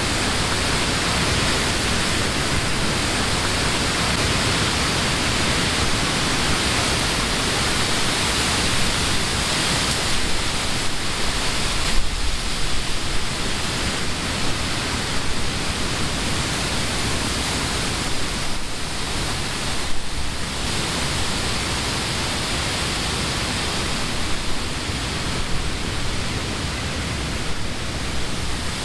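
Wind blowing through the leaves of trees: a steady rushing hiss that swells in gusts a few times.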